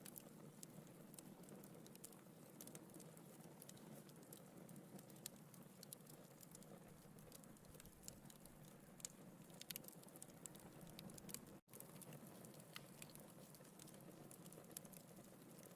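Wood fire burning in a fireplace, crackling faintly with many small irregular pops and snaps over a low steady rush of flame. The sound drops out for an instant about two-thirds of the way through.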